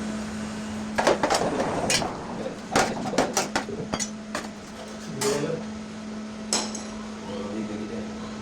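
Irregular metal knocks and clinks, a dozen or so sharp strikes at uneven intervals, from hammering and handling the sheet-steel shell and baffles of a cut-open car muffler, over a steady low hum.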